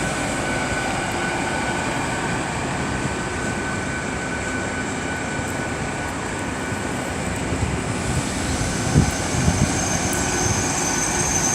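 Great Western Railway Class 800 train running into the station platform: a steady rumble with a thin, steady high whine, which grows stronger near the end as the train slows. A few low thumps come about nine seconds in.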